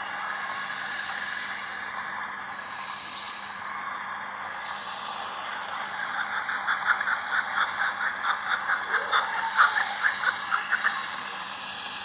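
Outdoor farmyard ambience with a steady high hiss. From about six seconds in, a bird chirps rapidly, about four or five short calls a second, for some five seconds.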